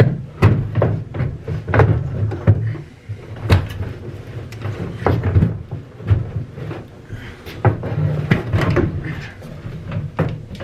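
Irregular knocks and clunks of a bus interior fitting being wrestled loose, banging as it catches on metal and foam.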